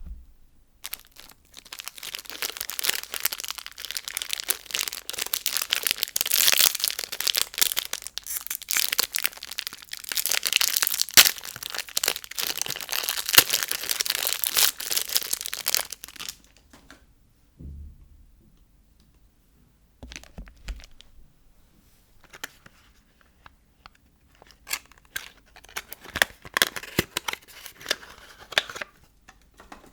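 Soap packaging being torn open and unwrapped by hand: about fifteen seconds of continuous tearing and crinkling, then after a short pause, sparser crinkles toward the end.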